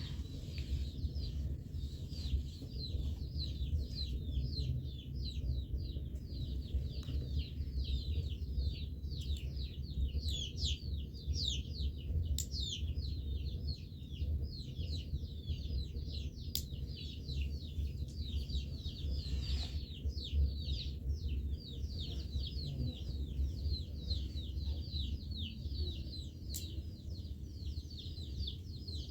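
Many birds chirping continuously in a dense chorus of short high, falling chirps, over a steady low rumble.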